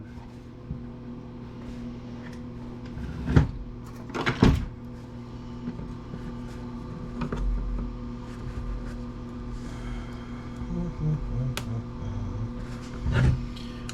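A few clacks and knocks of tool and plastic planer parts being handled during disassembly, loudest about three seconds in, again a second later and near the end, over a steady low hum.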